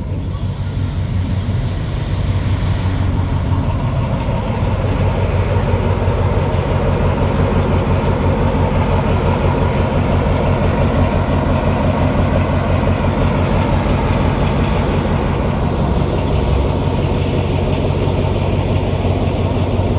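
Diesel-electric locomotive engine running loudly with a fast, even throb. It builds up over the first few seconds and then holds steady.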